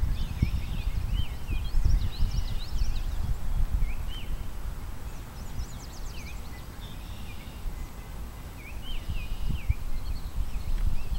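Songbirds chirping in short, quick rising-and-falling calls, scattered through, over an uneven low rumble that eases off in the middle.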